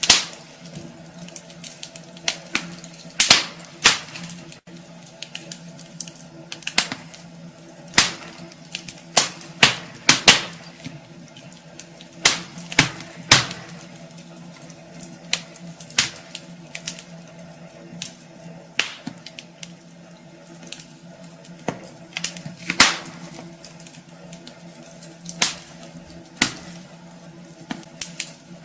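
Wood fire in a fireplace crackling, with irregular sharp pops and snaps over a soft hiss and a faint steady low hum.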